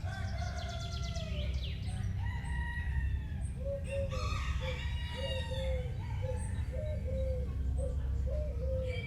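Chickens: a rooster crows in one long falling call near the start, then hens cluck in short repeated notes about twice a second. Small birds chirp over a steady low hum.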